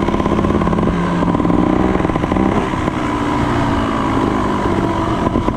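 Motorbike engine running at a steady pace while riding, a fast even pulsing with a pitch that wavers only slightly.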